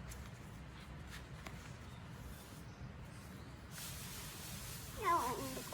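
A low steady hum with a few faint ticks. About five seconds in, a short high-pitched voice sound with a wavering, falling pitch.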